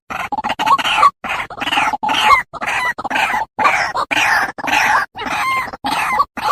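White-breasted waterhen (ruak-ruak) calling: a loud, rapid run of harsh, croaking notes, about two to three a second.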